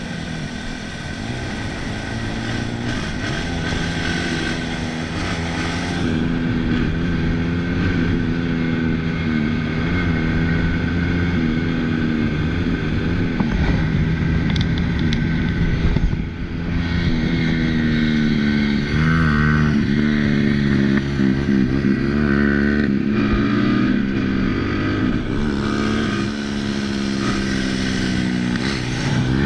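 Motorcycle engine running hard under acceleration, its pitch climbing and then dropping back several times as it shifts through the gears.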